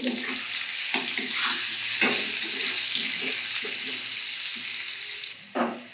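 Food frying and sizzling in hot oil in a kadhai, with salt and turmeric just added, as it is stirred; a couple of sharper knocks come about one and two seconds in. The sizzle cuts off suddenly near the end.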